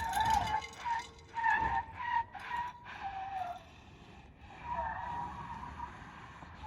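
Tyres squealing in short, wavering tones as they scrub and slip on rock under a Rivian R1T electric truck climbing the trail on its factory all-terrain tyres, with a few knocks mixed in. The squeal is strongest in the first half and fades toward the end.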